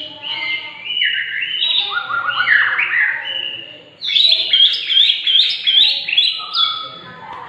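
White-rumped shama (murai batu Medan) singing a continuous, varied song of loud whistled notes and pitch glides. After a brief lull just before the middle, it gives a run of repeated rising-and-falling notes, about three a second.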